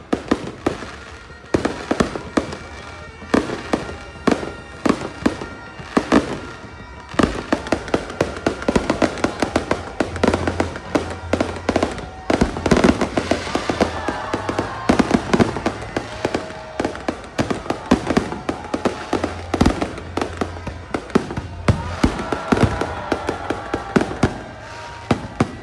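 Fireworks going off in rapid, irregular bangs and crackles, densest from about seven seconds in, with music playing underneath.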